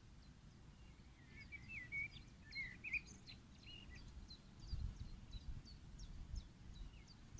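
Faint songbirds singing in the trees: short repeated chirps and warbling phrases that start about a second and a half in, over a low rumble of wind that swells about halfway through.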